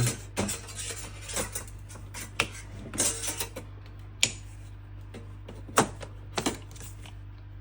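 Irregular metal clicks and taps of a 4 mm Allen key turning a bolt loose on the underside of an espresso machine, about a dozen spaced unevenly, over a steady low hum.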